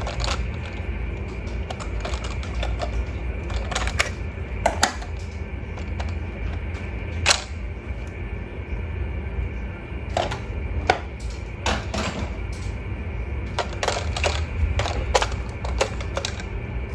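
Irregular sharp clicks and knocks, as of small hard objects being handled, over a steady low hum.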